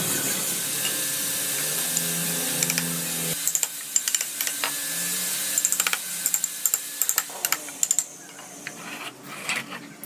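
Woodworking noise: a small motor runs steadily with a hiss for about three seconds, then it stops abruptly and irregular taps and clicks of tools on wood follow.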